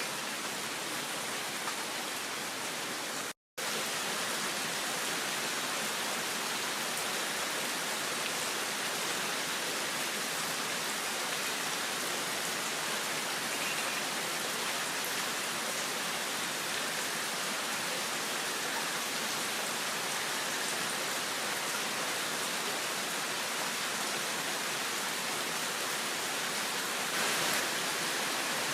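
Heavy downpour of rain falling steadily. The sound cuts out completely for a moment about three seconds in.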